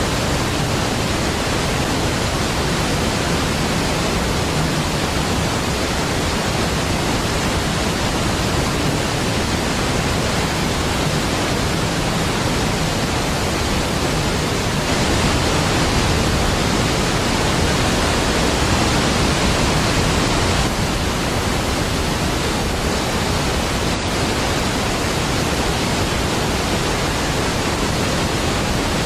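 A large waterfall: a steady, dense rush of falling water with no breaks, swelling slightly for several seconds in the middle.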